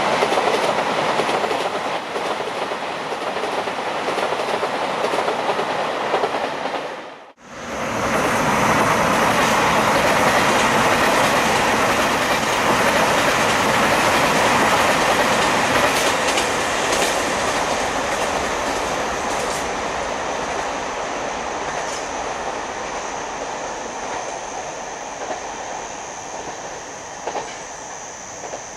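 Seven-car KiHa 261 series diesel limited express running past with wheels clattering over the rail joints. The sound cuts out for a moment about seven seconds in, then gradually fades as the train draws away.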